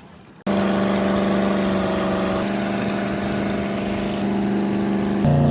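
Motorboat engine running at a steady speed. It starts abruptly about half a second in, and near the end it cuts to a lower, louder engine note.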